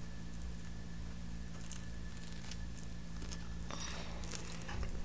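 Faint biting and chewing of a slice of pizza close to the microphone, with scattered small wet mouth clicks over a steady low hum.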